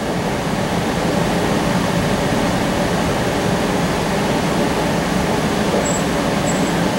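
Steady interior running noise of a CAF Urbos 3 streetcar heard from inside the car: an even rumble and hiss from wheels on rail, the drive and ventilation.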